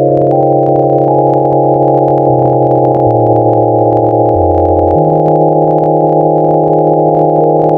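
Layered software synth played from a keyboard: a held chord of smooth, sine-like tones in the upper layer while a mono sub-bass layer underneath plays one note at a time, stepping down three times and then back up about five seconds in.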